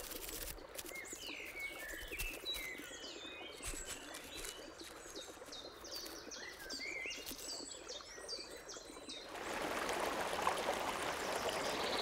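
Wagtails calling: a busy run of short, high chirps over the soft rush of a stream. About nine seconds in the chirps stop and the steady rush of flowing stream water grows louder.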